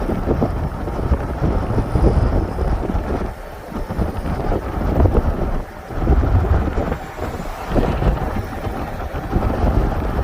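Wind buffeting the microphone in uneven gusts, over the low rumble of a car on the move.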